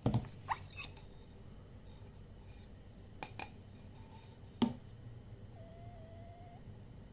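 Handling clicks and knocks from a Lumintop Aurora flashlight-powerbank being opened to take out its large 46800 battery. There is a quick cluster of knocks at the start, two more about three seconds in, and a sharper knock a second after that.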